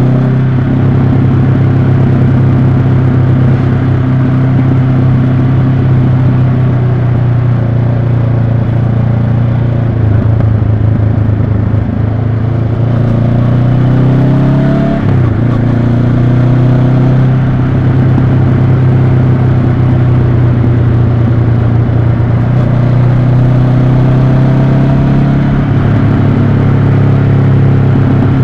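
Honda CB500X's 471 cc parallel-twin engine running steadily under riding, heard from on the motorcycle. About halfway through the note briefly drops and swoops back up before settling again.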